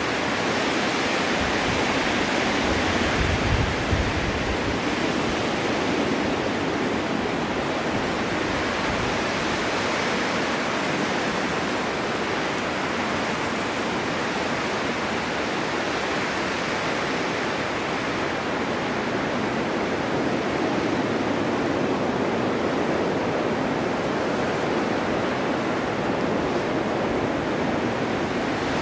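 Winter wind blowing in a snowstorm, a steady rushing that swells and eases in slow gusts, with a brief low rumble about three seconds in.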